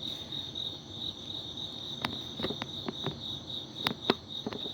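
Crickets chirping in a steady, evenly pulsing high trill, with a handful of sharp clicks in the second half.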